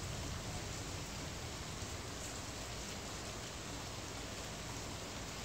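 Rain falling steadily on a tin roof: an even hiss with the light patter of individual drops.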